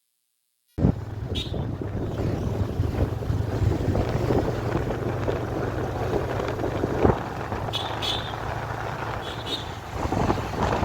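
Motorcycle engine running at a steady speed under heavy wind noise on the microphone during a ride, starting suddenly about a second in. A few brief high chirps cut through, the last near the end.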